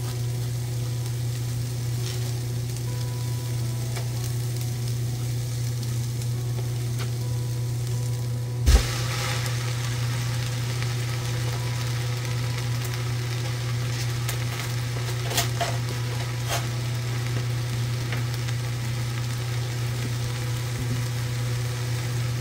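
Chopped onions sizzling in the stainless inner pot of an Instant Pot on sauté, over a steady low hum. About nine seconds in, a slab of raw ground beef drops in with a thud and the sizzling grows louder and brighter, with a few small clicks later on.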